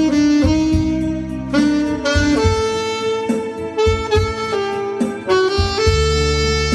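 Saxophone playing a slow song melody in long held notes over an accompaniment with low bass notes.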